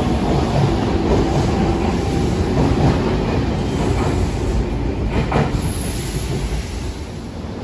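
Semboku Rapid Railway 5000 series electric train pulling out of the station past the platform, with a steady running rumble. Wheels clack over the rail joints a few times about five seconds in, and the noise fades as the last car goes by.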